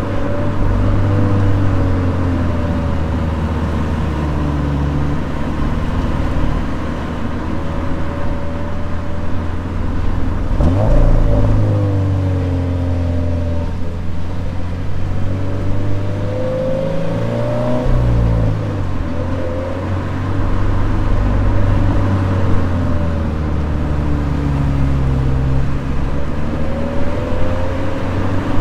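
Toyota 86's flat-four boxer engine running under way, its note rising and falling repeatedly with throttle and gear changes, with a quick jump in pitch about eleven seconds in.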